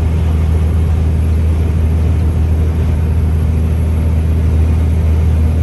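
Semi-truck diesel engine droning steadily, heard from inside the cab while driving, with a constant low hum and road noise.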